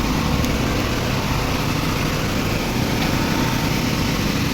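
Small Hyundai portable petrol generator running steadily under load during a power outage.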